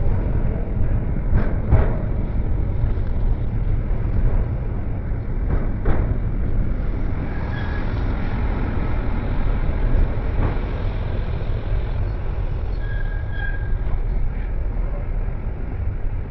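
Milan tram running on its rails: a steady low rumble with occasional knocks over the track and a couple of brief high squeals.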